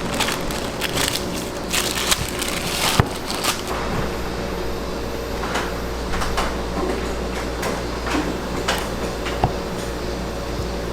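Crumble-shop kitchen work: crackly crunching and rustling with a few sharp knocks, over a steady low hum of kitchen equipment.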